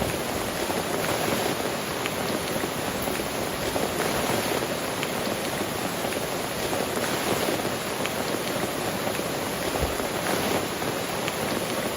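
Heavy rain falling steadily, a dense even hiss with scattered single drop hits.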